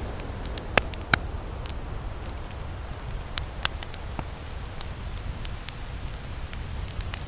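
Campfire crackling: irregular sharp pops and snaps, the two loudest about a second in, over a steady low rumble of surf.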